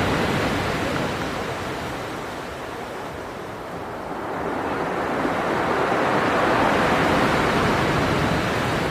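Storm surf on the sea, a continuous rushing of waves that swells and recedes: one surge fades over the first few seconds and the next builds to its loudest about six to seven seconds in.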